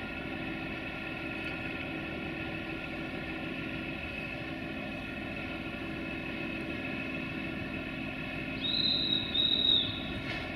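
Steady hum of a train standing at the platform, with several steady tones held throughout. Near the end come two short, high-pitched whistle blasts, each about half a second long.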